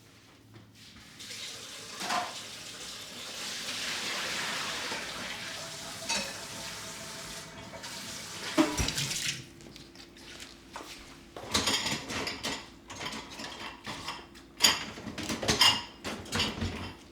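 Tap water running into a sink for several seconds, then a knock about halfway through and a series of clinks and clatters of dishes and cutlery being handled.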